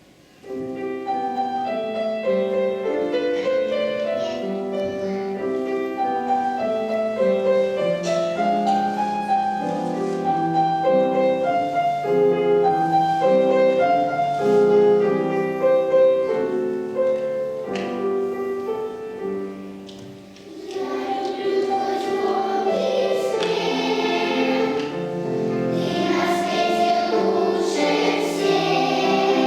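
Children's choir song with accompaniment. An instrumental introduction of steady melodic notes starts about half a second in, and after a brief pause near the two-thirds mark the children's voices come in singing together.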